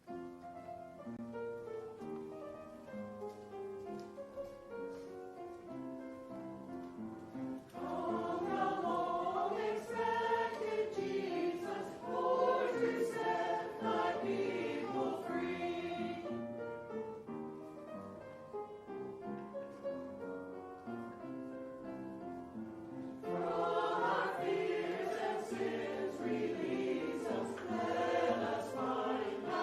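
A choir singing a sacred piece with instrumental accompaniment. Held, steady notes open it, and the voices swell in about eight seconds in, soften in the middle and rise again near the end.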